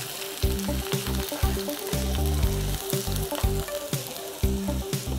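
Diced garlic, onion and sweet pepper sizzling in oil in a nonstick frying pan as they are stirred, with light ticks and scrapes of the spatula against the pan.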